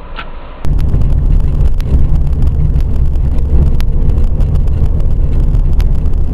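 Steady low rumble of a car on the move, road and engine noise picked up by a dashcam, starting abruptly about half a second in, with a few faint clicks.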